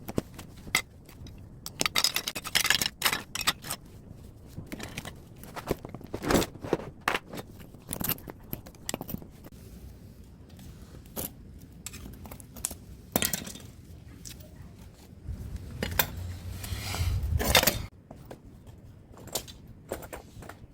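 Metal clicks, knocks and clattering from tools and loose parts as a scrapped air-conditioner outdoor unit is taken apart, with a longer scraping sound for about two seconds past the middle.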